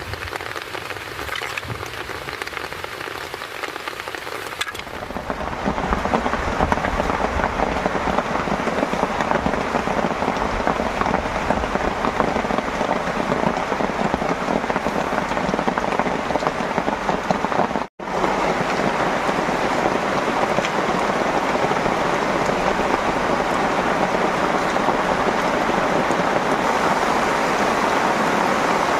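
Heavy rain falling steadily, with fine drop ticks at first; it grows louder and fuller about five seconds in, and cuts out for an instant a little past the middle.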